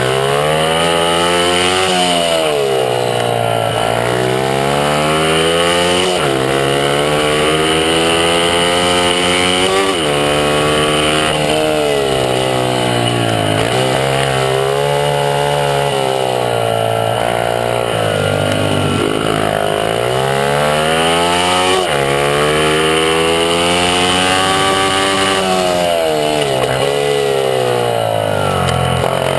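Honda CRF50 pit bike's small four-stroke single-cylinder engine running hard under race load, heard from on board. The pitch climbs and falls every few seconds as the rider accelerates, shifts and backs off for corners, with several sudden drops in pitch.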